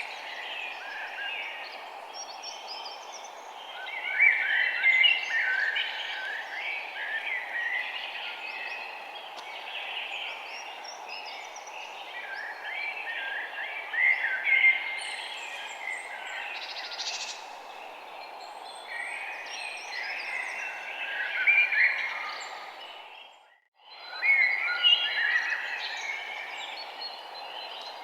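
Many small songbirds chirping and twittering in overlapping bursts over a steady background hiss. The sound fades out briefly about three-quarters of the way through, then comes back with a loud flurry of chirps.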